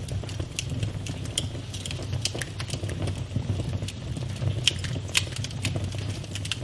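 Campfire burning: irregular sharp crackles and pops from the wood over a steady low rumble of the flames, with one louder pop about five seconds in.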